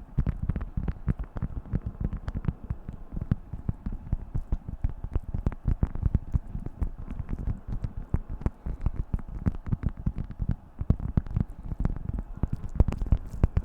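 Beeswax food wrap being crinkled and handled, giving a dense, uneven run of soft crackles and taps.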